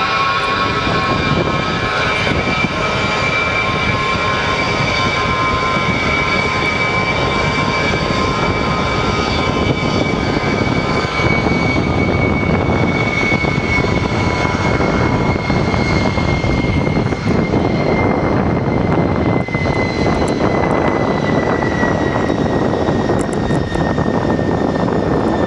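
Gulfstream IV's Rolls-Royce Tay turbofan engines running on a ground test: a loud, steady jet roar with a high whine that slowly falls in pitch.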